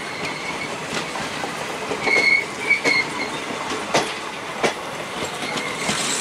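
Indian Railways passenger coaches rolling past at speed, wheels clacking sharply over rail joints about once a second. A short high wheel squeal rings twice about two to three seconds in.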